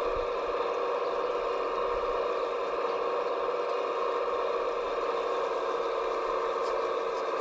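Steady electric whine of a radio-controlled scale construction machine's motor and hydraulic pump, holding one even pitch without revving or pauses.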